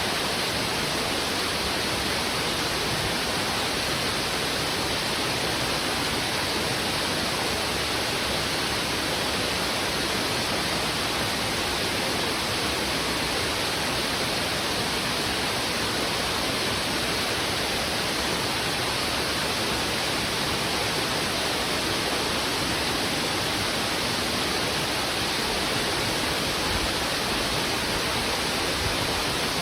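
River water rushing over rocks in a strong, steady flow: a dense, unchanging hiss with no separate splashes or calls standing out.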